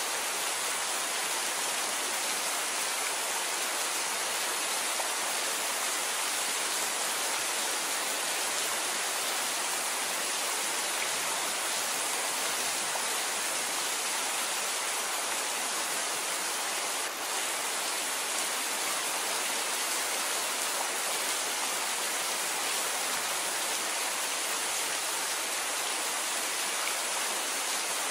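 Steady rain falling, an even hiss with no separate drops or thunder standing out, and one momentary dip in level about two-thirds of the way through.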